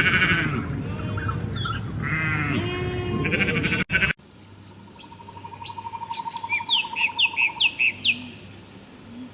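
A short stretch of animal calls, then after a sudden cut a bird's run of short, falling chirps, about five a second, over a steady high trill.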